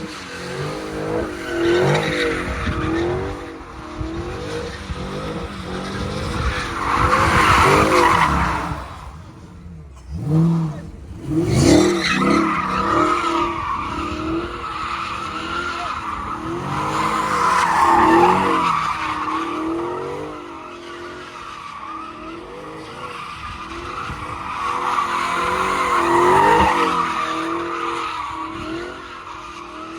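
Car engines revving hard, pitch rising and falling, with tires screeching in long swells, as in burnouts or donuts. The screech peaks three times, about a quarter, two thirds and nine tenths of the way through, and briefly drops away about a third of the way in.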